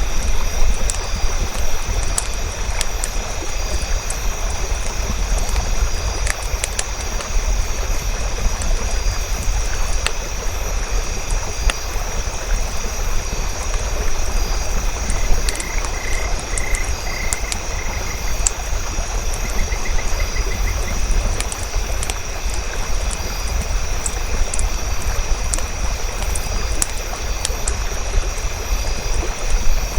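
Campfire crackling with scattered sharp pops over a steady rushing hiss and a low rumble, with a steady high drone and a short pulsed chirping call about halfway through.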